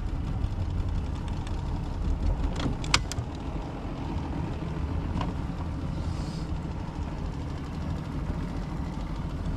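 Outboard boat motors running with a steady low drone as an aluminum bass boat passes, with a few sharp clicks about three seconds in.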